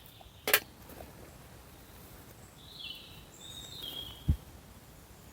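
Quiet outdoor ambience with a few short, high bird chirps a little past halfway. A sharp click comes about half a second in and a brief low thump near the end.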